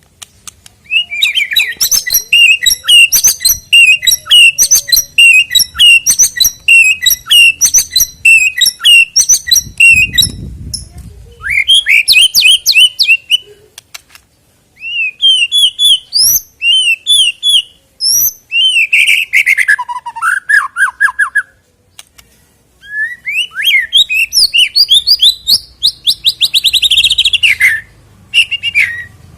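White-rumped shama (murai batu) singing a loud, varied song. It opens with a fast run of repeated chirped notes, then, after a short pause, sings varied whistled phrases, some dropping in pitch, and ends with a rapid trill near the end.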